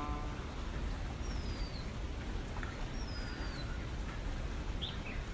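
A bird's short falling whistle, heard twice about two seconds apart, over a steady background hiss in a pause between sung lines.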